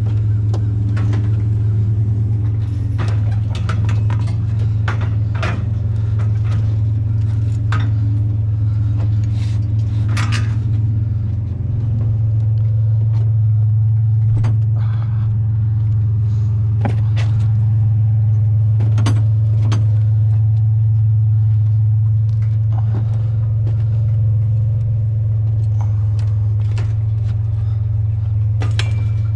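Truck engine idling steadily with a low hum, while metal scrap is handled and loaded, giving scattered clanks and rattles throughout.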